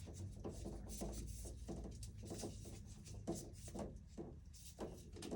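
Faint rubbing and scraping of an electrical cable run being straightened out by hand, as a string of short strokes about two or three a second.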